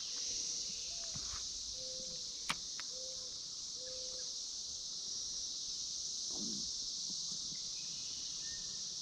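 Chorus of Brood X periodical cicadas, a steady high-pitched drone. A few short low notes sound over it, and a single sharp click comes about two and a half seconds in.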